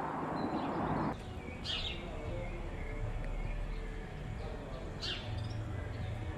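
Birds calling outdoors: two quick, falling, high-pitched chirps, one about a second and a half in and another near five seconds, over a faint low hum. A rushing noise in the first second cuts off suddenly.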